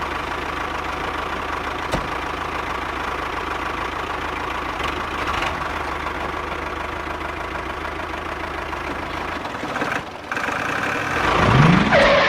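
An engine idling steadily with a fast, even low rattle. It cuts out briefly about ten seconds in, then comes back, with a few rising-and-falling pitched sweeps near the end.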